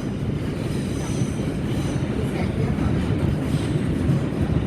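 New York City subway 4 train running between stations, heard from inside the car: a steady rumble of wheels on the rails with a faint high whine above it.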